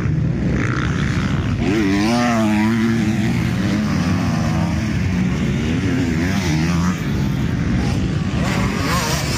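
Several motocross bikes running on the track, their engines revving so that the pitch rises and falls, over a steady rumble of more engines.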